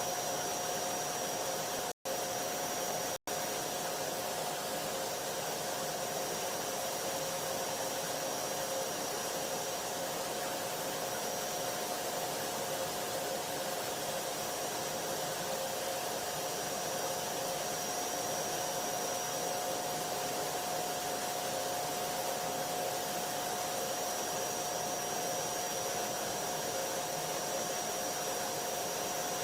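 Vacuum cleaner motor running steadily: an even rushing noise with a constant whine on top. It cuts out for an instant twice, about two and three seconds in.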